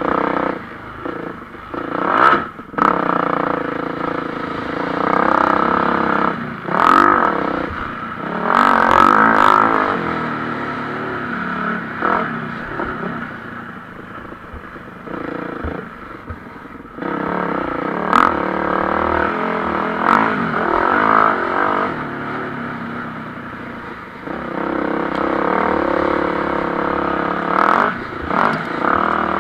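Motocross bikes racing, their engines revving up and falling back as they accelerate and pass, swelling loudest around a third of the way in and again near the end, with a few sharp clacks.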